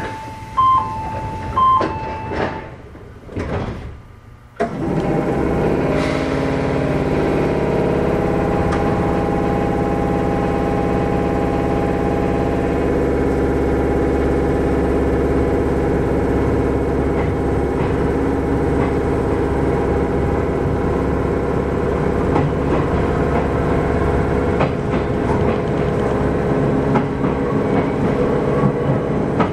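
Inside an Izukyu 8000 series electric train: a two-tone chime rings a few times and the sliding doors close. About four and a half seconds in, a loud, steady hum with several held tones starts abruptly from the train's equipment and runs on evenly.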